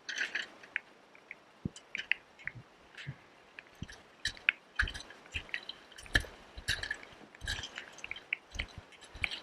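Small, irregular drips, splashes and clicks close to the microphone, spaced unevenly with no steady rhythm: water dripping and lapping around a kayak.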